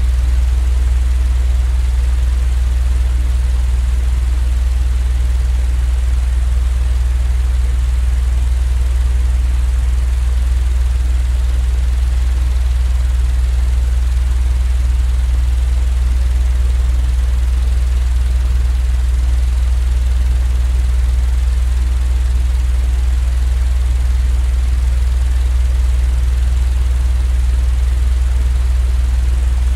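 Steady, unchanging low-pitched rumbling hum, a continuous sleep-noise track.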